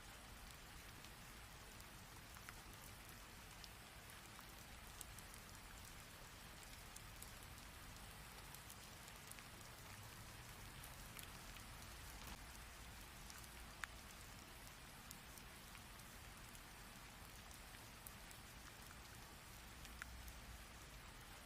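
Steady rain falling, with scattered single drops ticking close by; one sharper drop lands about two-thirds of the way through.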